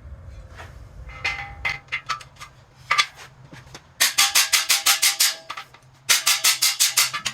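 Hammer striking a cam bearing installer tool, driving a new cam bearing into a 6.0 LQ4 engine block. A few scattered metallic taps, then two runs of quick ringing blows, about six a second, starting about four and six seconds in.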